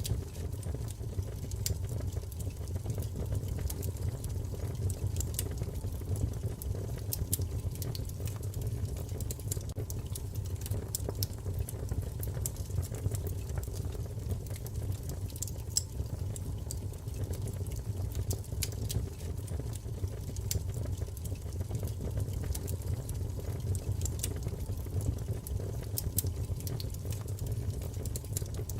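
Wood fire burning, with a steady low rumble of flames and irregular sharp crackles and pops from the burning logs.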